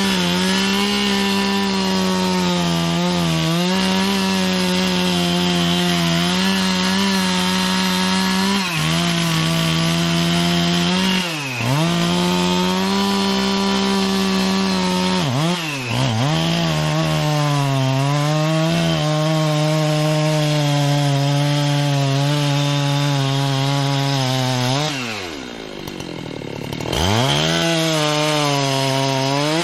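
Two-stroke chainsaw running at high revs, cutting into a black cherry trunk while the tree is being felled. Its steady pitch briefly sags and recovers a few times, and near the end the revs and loudness drop for a couple of seconds before it climbs back up.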